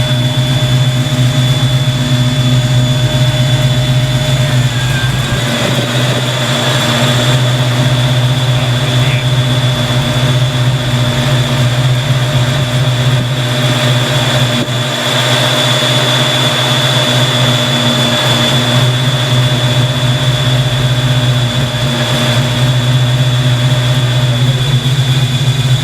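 Fox Body Mustang engine idling steadily with its dual electric radiator fans running, a steady deep hum under a steady high whine.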